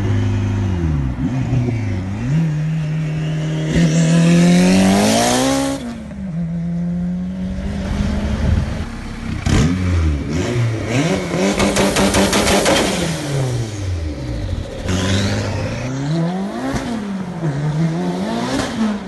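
Turbocharged Acura RSX's 2.0-litre four-cylinder engine revving again and again, its pitch rising and falling, with one long climb to high revs about four seconds in. A fast rattle comes through in the middle of the revving.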